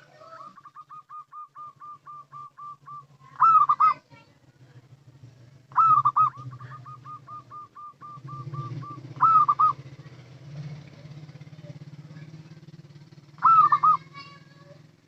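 Zebra dove (local perkutut) calling: runs of quick, soft, short coo notes, about six a second, broken by louder looping coos four times. A steady low hum runs underneath.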